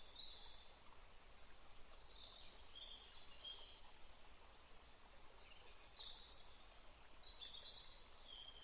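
Faint bird calls: short high chirps and whistled phrases, at the start, in the middle and again near the end, over a steady low hiss.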